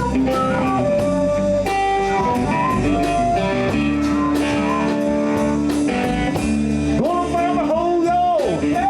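Live blues band playing: electric guitar over bass and drums, with a lead line of bent, wavering notes near the end.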